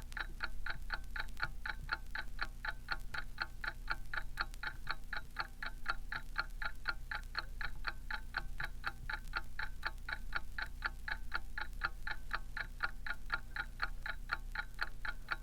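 Mechanical alarm clock ticking steadily and fast, about five ticks a second.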